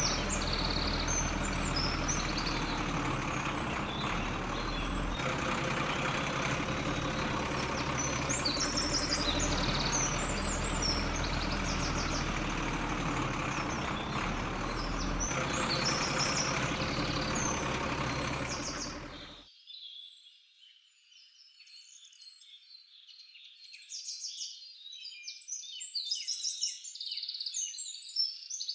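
A truck engine running steadily, with birds chirping over it. About two thirds of the way through, the engine sound cuts off abruptly, leaving only birdsong.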